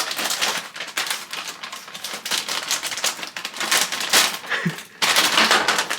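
Meatballs poured from a bag tumbling into a crock pot: a rapid, irregular run of clicks and knocks as they hit the pot and each other.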